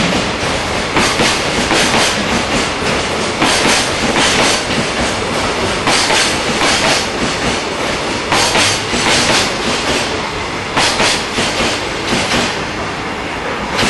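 Freight container wagons rolling past, their wheels clattering over the rail joints in recurring pairs of beats. Near the end the last wagon goes by and the clatter gives way to a steadier rumble.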